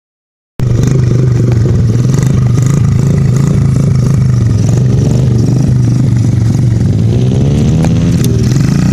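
Dirt bike engine running, starting about half a second in, with a steady low drone underneath and the engine pitch rising and falling twice, around the middle and again near the end, as it revs.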